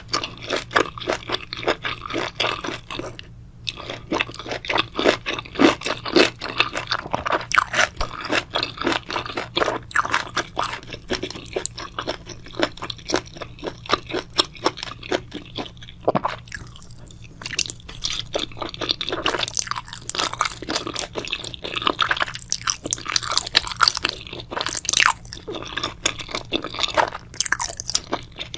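Close-miked chewing of crunchy food: a dense run of crisp, irregular crunches and bites, with short pauses about three seconds in and again around seventeen seconds.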